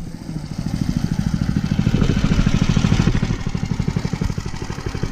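Mega Moto 212cc minibike's small single-cylinder engine running with a fast, even putter, a little louder in the middle and easing off toward the end.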